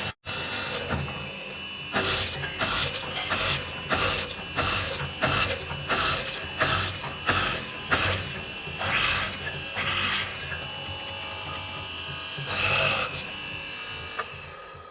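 Woodworking tool at work: short scraping or knocking strokes about one to two a second, over a faint steady hum.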